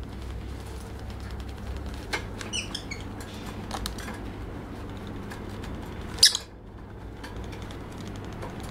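Lovebird making a few faint high chirps and squeaks among light scratching ticks, with one sharp, loud high-pitched burst about six seconds in.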